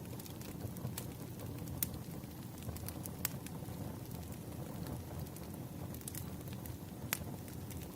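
Wood fire crackling: scattered sharp pops and snaps, irregularly spaced, over a steady low rumble of the burning logs.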